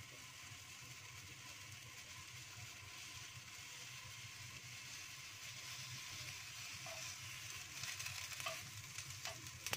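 Eggplant pieces sizzling faintly as they pan-roast in a wok, a steady hiss over a low hum. Near the end, wooden chopsticks click and scrape against the pan as the pieces are turned.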